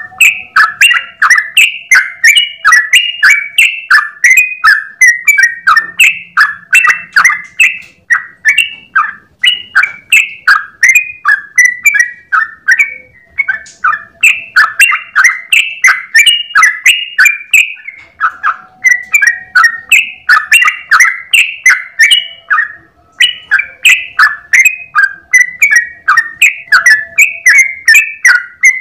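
Yellow-vented bulbul (trucukan) singing a long, rapid run of bubbly chirping notes, about three a second, in the continuous 'ropel' style, broken only by a few brief pauses.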